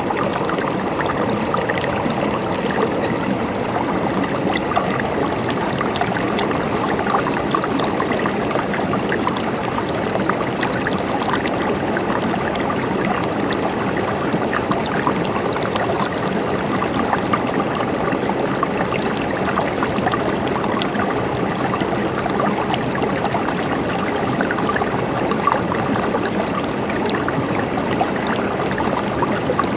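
A stream of water flowing and trickling steadily, with many small splashes.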